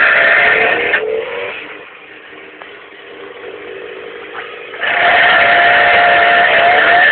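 Suzuki 1000 motorbike engine revved hard to spin a go-kart's rear wheel, trying to turn over the kart's 100cc PRD engine, which does not catch. The revving runs loud until about a second in, drops away for a few seconds, and picks up just as loud again about five seconds in.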